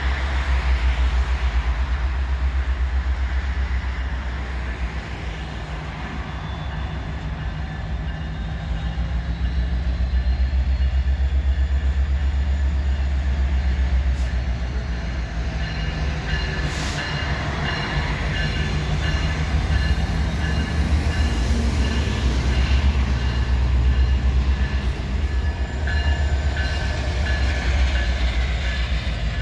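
Freight-style train cars rolling past at close range: a steady, loud low rumble of steel wheels on rail with a fast pulsing rattle. Faint high steady tones join in over the second half.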